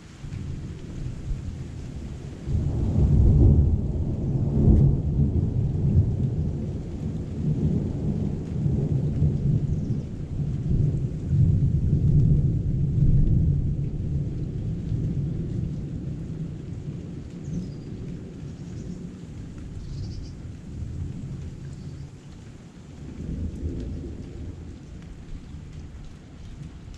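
Thunder rolling over steady heavy rain: a low rumble builds a couple of seconds in, stays loud for about ten seconds, then dies away, with a smaller rumble near the end.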